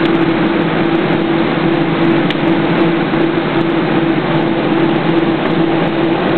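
Steady cabin noise inside an Airbus A320 on the ground after landing: engines idling and the air-conditioning, with a constant low hum and even rushing noise.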